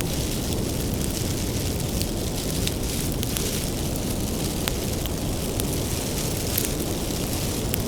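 Bonfire of firewood burning: a steady low rumble of the flames with frequent sharp crackles and pops of the wood.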